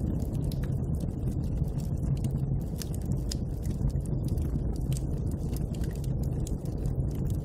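Steady low rush of snowstorm wind, with a wood fire crackling in many small, sharp pops over it.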